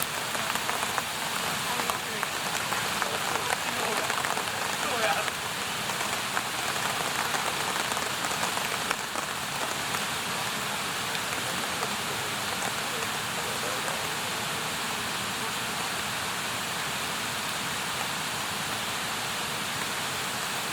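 Wood campfire crackling and hissing, with a busier run of pops about four to five seconds in, settling to a steadier hiss after the middle.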